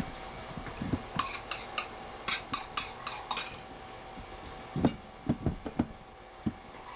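A quick run of about eight sharp clinks, like metal or crockery being handled, followed a second or so later by a few dull knocks.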